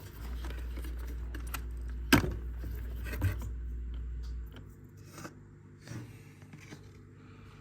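Clicks and scraping of wiring connectors being pulled off a dishwasher's heater and circulation pump, with one sharp click about two seconds in and another about a second later. A low steady rumble sits under it and stops about four and a half seconds in.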